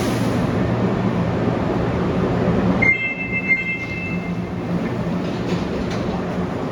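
Osaka Metro Midosuji Line subway train running at the station platform: a steady rumble and electric hum. About three seconds in there is a high squeal lasting a second or so.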